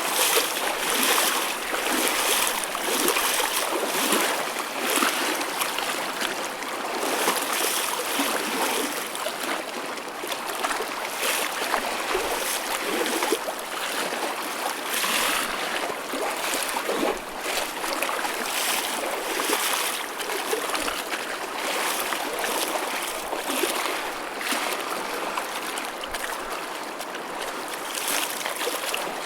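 Choppy ocean waves lapping and splashing in a steady wash, with small surges every second or two and no big breaking crashes.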